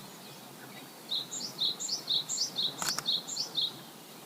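A small bird singing a quick run of short, high, down-slurred notes for about two and a half seconds, with one sharp click partway through.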